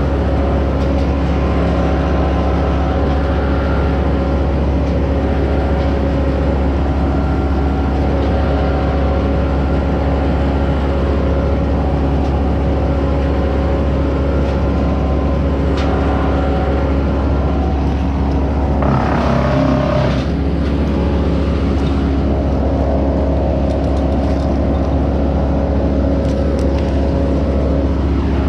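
An engine running steadily at a constant speed, with a brief louder, rougher burst of noise about two-thirds of the way through.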